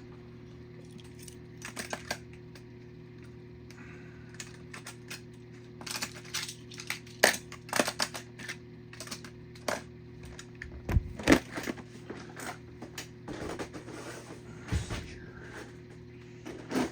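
Die-cast toy cars being handled, giving scattered sharp clicks and clatters as small metal cars knock together and are set down. A steady low hum runs underneath.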